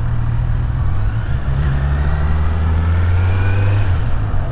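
Kawasaki Z900's inline-four engine running at low, steady revs while riding, with a slight change in engine note near the end.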